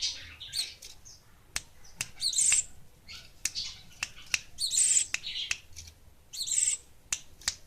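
A gelatik wingko bird chirping in short, repeated high bursts about once a second, with sharp single clicks in between.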